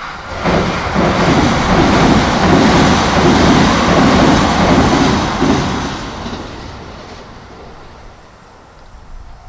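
Kintetsu electric train passing over the level crossing and the steel river bridge: a loud rush of wheels on rail with a rhythmic clatter. It builds within the first second and fades away over the last few seconds.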